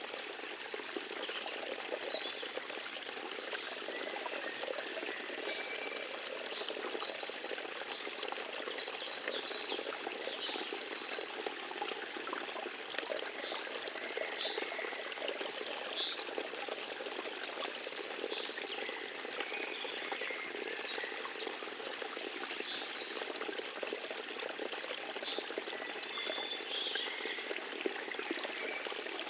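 Forest stream trickling and babbling steadily over its bed, with short high-pitched notes here and there above the water.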